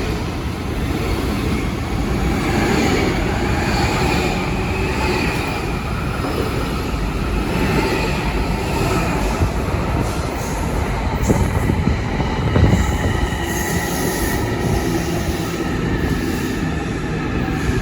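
Train moving along the tracks: a steady running noise with faint high ringing tones above it, and a few sharp knocks about two-thirds of the way through.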